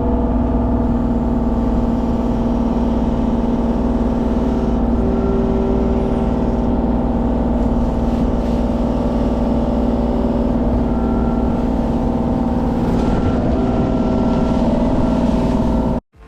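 Mini excavator's diesel engine running at a steady speed, with an even hum that stays level throughout. The sound cuts off abruptly near the end.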